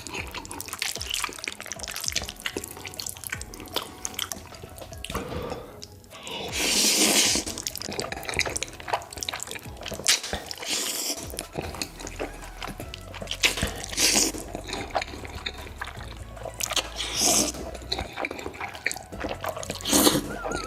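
Close-miked mukbang eating sounds: wet slurping of noodles and chewing, with a run of small wet clicks and a few longer, louder slurps about six, ten, fourteen, seventeen and twenty seconds in.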